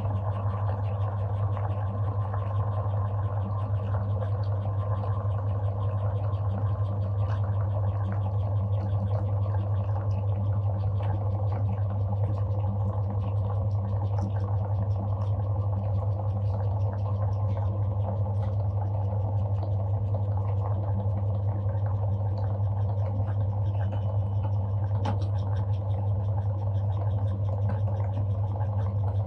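Electric meat grinder running steadily with a deep, even hum and a grinding rasp over it.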